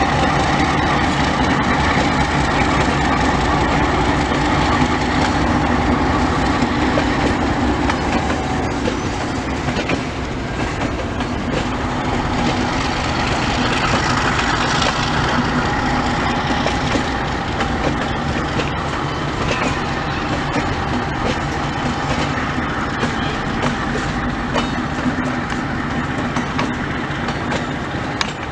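Passenger train coaches rolling past at low speed, their wheels clicking and rumbling over the rails in a steady run of noise.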